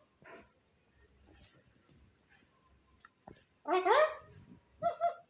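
Pet parrot calling: two quick, loud calls rising in pitch about four seconds in, then two short notes near the end.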